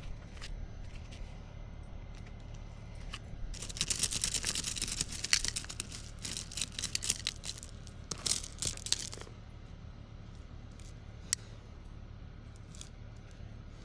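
Crackling, tearing rustle of weeds and brush being pulled and handled, in two stretches: one starting about three and a half seconds in and lasting some four seconds, then a shorter one about eight seconds in. A single sharp click comes later.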